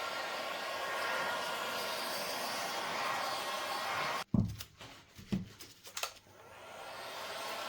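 A small electric blower, like a hair dryer, running with a steady whirring rush. It cuts off suddenly about halfway through, a few short knocks follow, and then the blowing comes back in, building up near the end.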